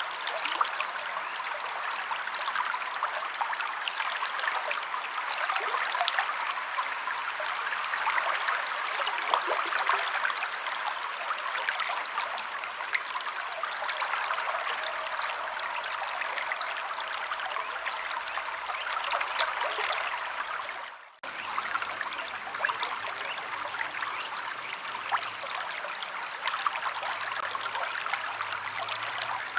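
River water flowing steadily, with a few faint short bird chirps now and then. The sound dips out briefly and comes back about two-thirds of the way through.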